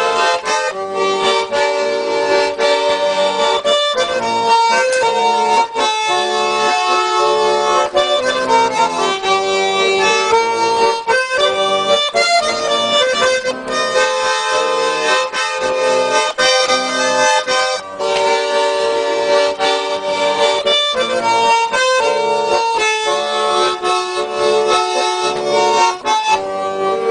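Russian garmon (button accordion) playing an instrumental interlude between sung verses: a quick melody over sustained chords, unbroken.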